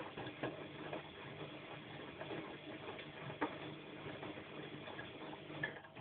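Bosch washing machine drum turning in the wash cycle, the laundry tumbling with irregular soft knocks and clicks. Near the end the drum stops, leaving only a faint steady hum: a pause in the wash rhythm.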